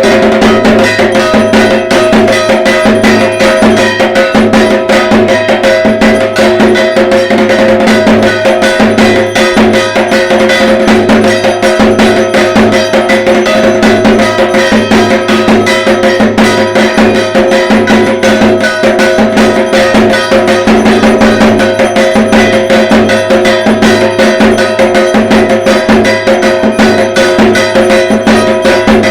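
Dhak, the large Bengali barrel drum, beaten in a fast, unbroken rhythm of dense strokes, with a steady metallic ringing sustained over the drumming.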